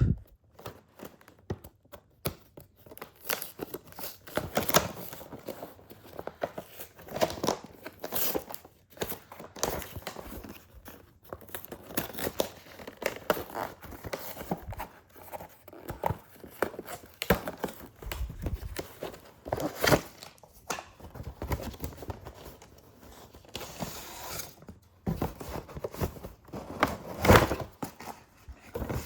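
A toy playset's cardboard box being opened by hand: tearing, packaging rustling and crinkling, and scattered small knocks as the parts come out.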